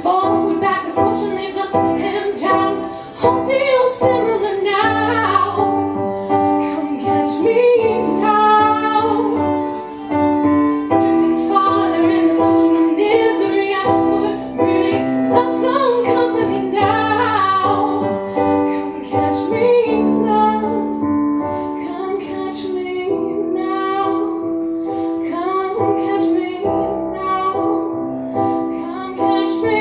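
A woman singing a song with piano accompaniment, her voice wavering with vibrato over held piano chords.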